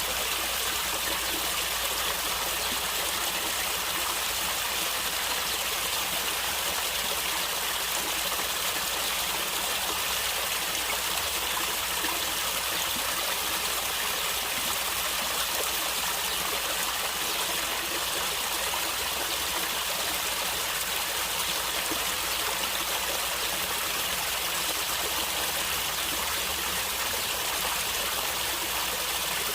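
A stream of running water gurgling and trickling steadily, with no change throughout.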